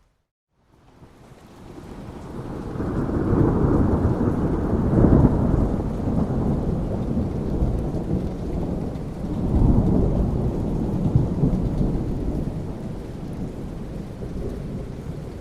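Thunderstorm: after a short drop-out to silence, rain fades back in and thunder rolls in long, deep rumbles, swelling twice about five seconds apart over the steady hiss of rain.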